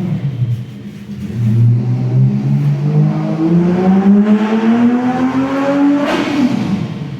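Toyota 2UZ-FE V8 engine revving. It settles back from a previous rev at the start, then climbs slowly and steadily for about four seconds. The throttle is released about six seconds in and it falls quickly back to idle.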